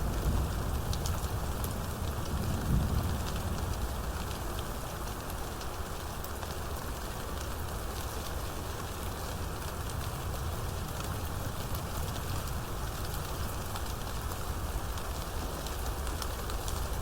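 Steady rain falling, with fine scattered drop ticks, and a low thunder rumble in the first few seconds that dies away.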